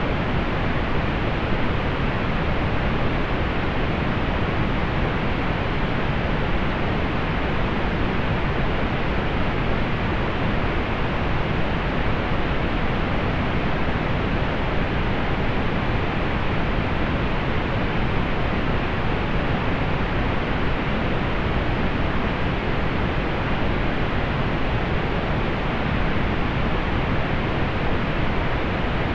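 Steady synthetic pink noise: an even, unchanging hiss, strongest in the lows and softening toward the highs, with no other sound in it.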